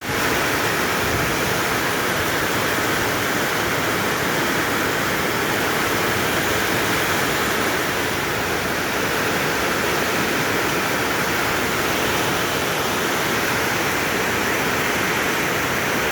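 Steady rain falling in a garden, an even hiss of water that holds at the same level throughout.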